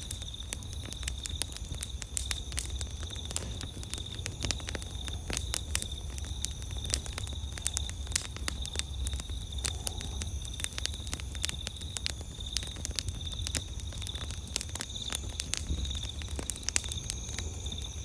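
Campfire crackling, with frequent irregular sharp pops and snaps, over the steady high chirring of night insects.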